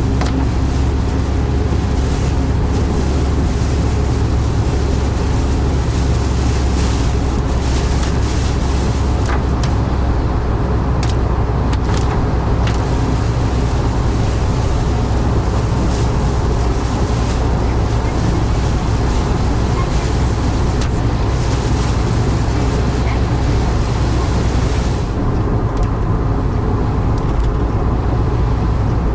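Steady, loud low rumble of vehicle and road noise with a hiss over it; the hiss drops away about 25 seconds in.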